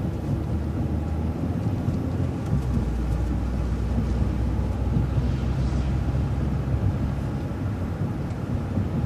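City bus driving along at steady speed: continuous engine hum and road rumble.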